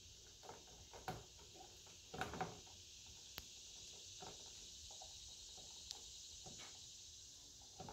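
Near silence with a faint steady hiss and a few scattered light clicks and knocks of handling, the clearest about a second in and around two seconds in.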